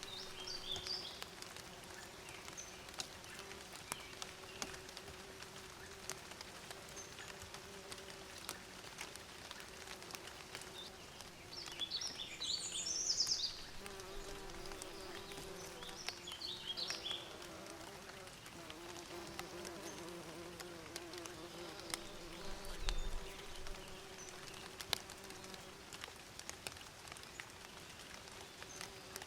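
Bees buzzing in a steady, wavering hum. Short high bird chirps break in about a second in, more loudly a little before the middle, and again shortly after.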